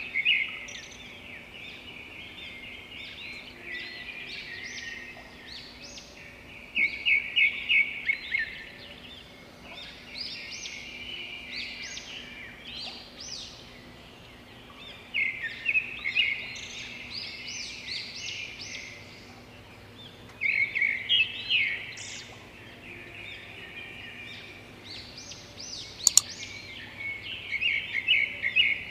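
Songbirds chirping and trilling, with a loud run of rapid repeated notes every six or seven seconds over quieter chirps. There is a single sharp click near the end.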